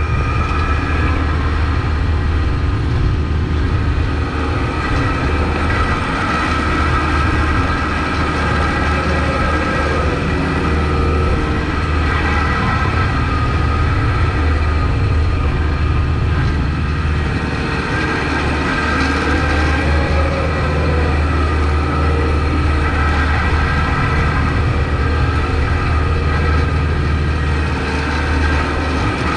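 Kubota MX5200 tractor's diesel engine running steadily while plowing snow, with a steady higher whine over the low engine sound.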